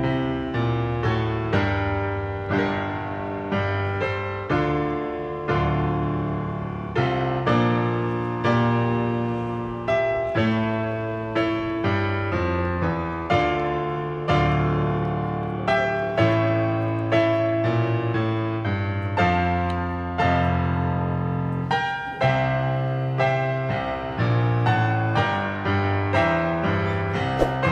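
Background piano music: a steady flow of struck notes with chords in the low range.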